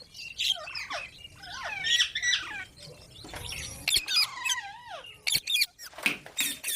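Green parrot calling: a busy run of short squawks and chirps that swoop up and down in pitch, with a couple of sharp clicks partway through.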